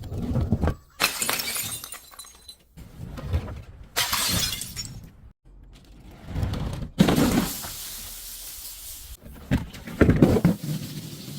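Glass bottles smashing, a series of about six separate crashes, each with a sharp onset followed by tinkling, crunching shards.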